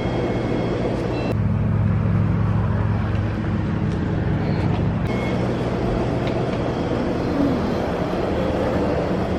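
An engine running steadily, its low hum growing stronger about a second and a half in and shifting again around five seconds.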